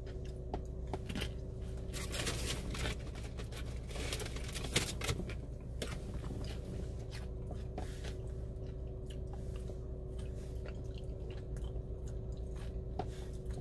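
Close-up chewing and crunching of a tortilla chip loaded with bean dip. The crackly crunches are thickest in the first half, then come more sparsely, over a steady low hum.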